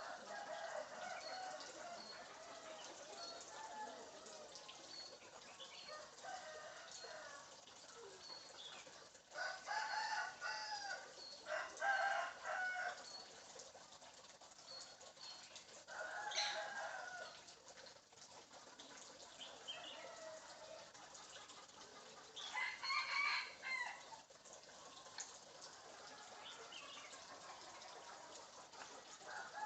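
Bird calls: a run of clucking and crowing-like calls, with short high chirps repeating faintly throughout. The loudest calls come about ten, sixteen and twenty-three seconds in.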